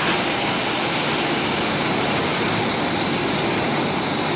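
Jet aircraft engine running steadily: a loud, even rush with a thin high whine.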